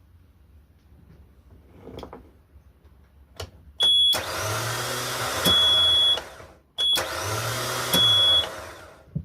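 Boat engine's electric starter motor whirring twice, each run about two seconds long, with a loud high steady beep sounding at the start and end of each run. The engine does not catch on either run.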